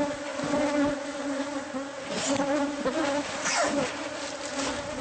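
A swarm of honeybees buzzing around an opened wall hive: a steady hum, with single bees flying close past the microphone, their pitch sliding as they go by.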